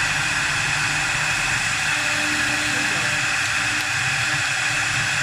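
A 4-axis CNC wood lathe running steadily while it cuts a wooden workpiece, giving an even hiss over a low rumble, with a faint hum that comes and goes.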